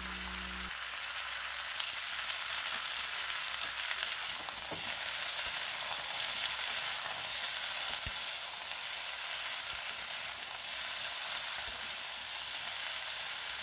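Mixed vegetables sizzling steadily as they fry in hot oil in a metal kadai, stirred with a spatula, with a couple of light clicks.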